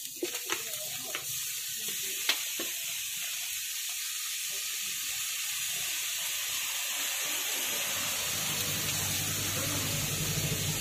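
Egg sizzling as it is stir-fried in a steel wok over a gas burner, with a few sharp clicks of the metal ladle against the wok in the first few seconds. The frying grows louder and fuller, with a low hum, from about eight seconds in.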